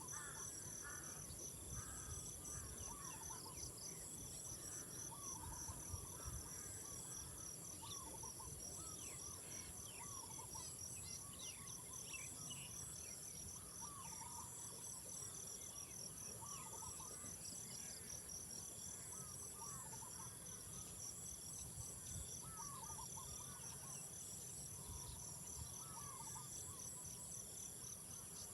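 Insects chirring steadily, one with a rapid pulsing trill, under short animal calls repeated every second or two, with a low rumble beneath.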